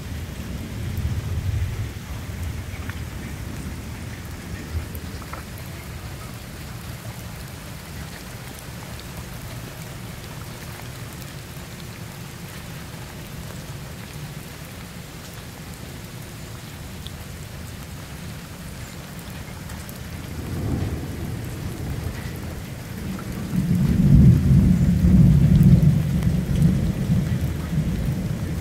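Steady rain falling, with water pouring from a bamboo spout into a stone basin and pond. A low rumble swells up about twenty seconds in and is loudest near the end.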